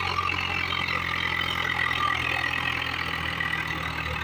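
Tractor diesel engine running steadily under load as the tractor works its way out of soft sand.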